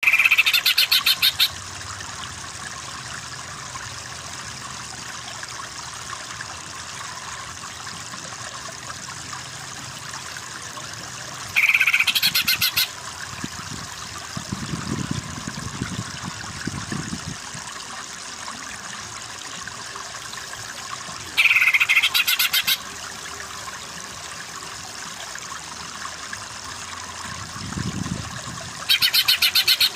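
A short, rapidly pulsed animal call of about a second, repeated about every ten seconds over a steady hiss, in a songbird-training recording.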